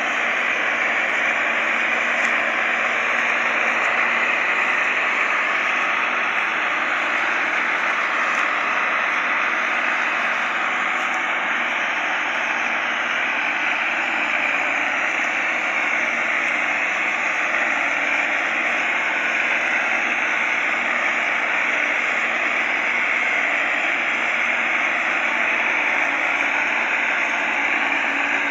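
Fiat tractor engines running steadily while hauling a heavy load, an even, unbroken noisy drone.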